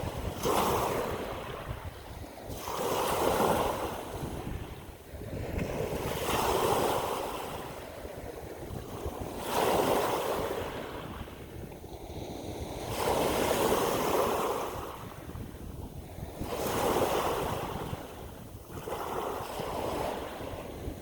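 Ocean waves breaking in a steady rhythm: a surge of surf about every three seconds, each swelling and then washing away.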